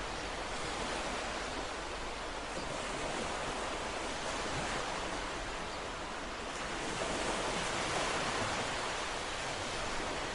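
Ocean waves washing onto a shore: a steady, even surf noise that swells gently, a little louder about seven seconds in.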